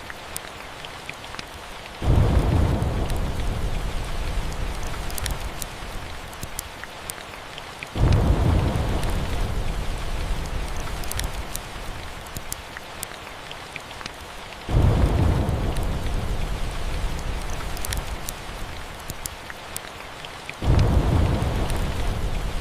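Steady rain with thunder breaking four times, evenly spaced, each starting suddenly with a deep rumble that fades away over several seconds. Faint sharp crackles are scattered throughout.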